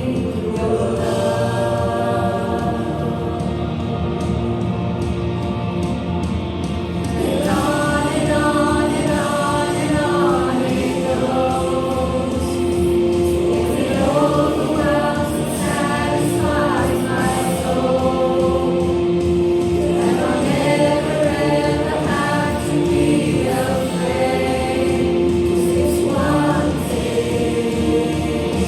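Worship music: a group of voices singing a Christian worship song together, with long held notes, over musical accompaniment.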